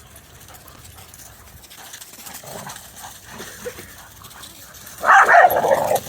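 Dogs at play. About five seconds in, a dog gives one loud vocal outburst lasting about a second.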